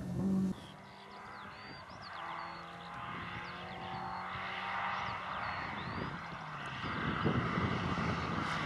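A loud car engine cuts off about half a second in. Then a car engine is heard from a distance, droning and rising in pitch in steps as it pulls through the gears, with faint high chirps over it.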